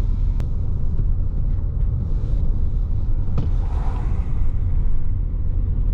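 Road noise inside a moving car: a steady low rumble of engine and tyres, with a couple of faint clicks.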